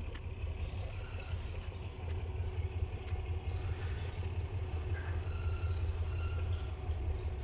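Diesel train engine running with a steady low rumble; a few faint short high-pitched tones sound in the second half.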